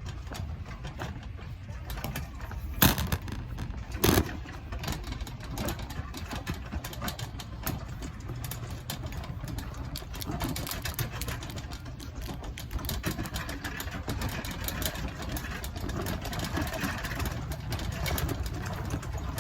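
Steady low rumble of a vehicle running, with two sharp knocks about three and four seconds in.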